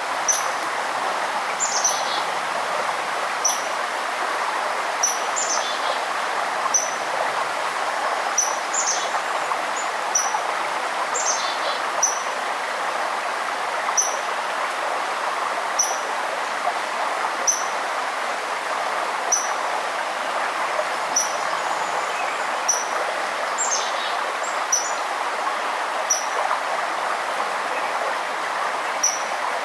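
Steadily flowing stream water with small birds singing over it: short high chirps repeating every second or two, and now and then a quick falling song.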